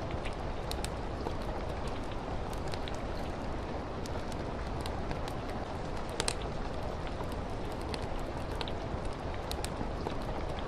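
Steady rain with a wood fire crackling: scattered sharp pops over the hiss of the rain, the loudest about six seconds in.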